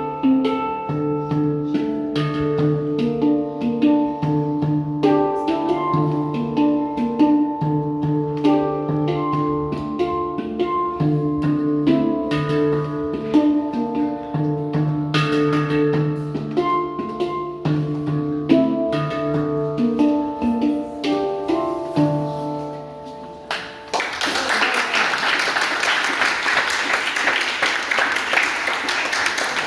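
Handpan played with the fingers: a melody of struck, ringing steel notes that fades out about 23 seconds in. About a second later, applause starts.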